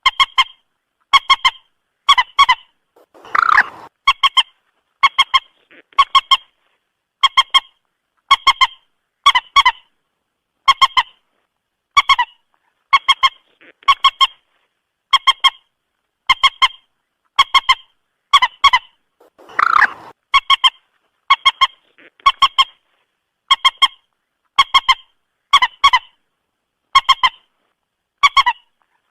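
Moorhen calling: a short, clucking double note repeated about once a second. Twice a longer, louder, harsher call breaks in, about three seconds in and again near twenty seconds.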